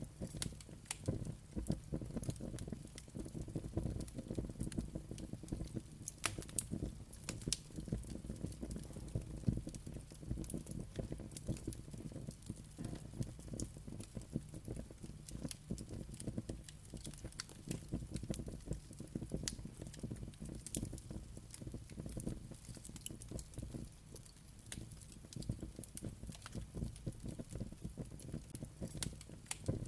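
Wood fire crackling and popping in a fireplace: a steady low rumble of flames under dense, irregular snaps, with a few sharper pops scattered through.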